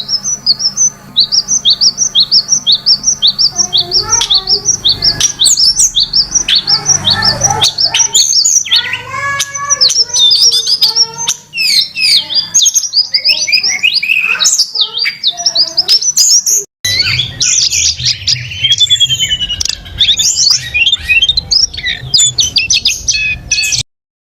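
Songbirds chirping and singing: for the first few seconds a rapid series of short falling chirps, about three or four a second, then a mix of overlapping calls and whistles from several birds. The sound cuts off suddenly near the end.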